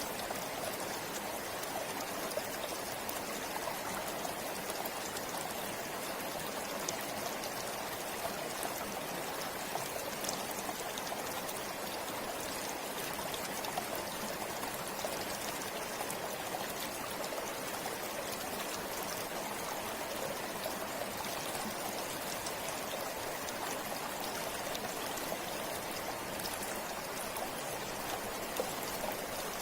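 River water flowing steadily over stones, a constant rushing with small splashes and trickles.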